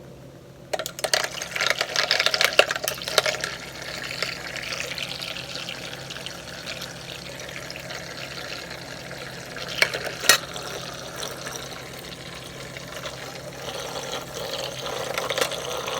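Water churning and splashing inside a small brush-washing machine as it spins paint brushes. The splashing is loudest in the first few seconds, with a couple of sharp clicks about ten seconds in.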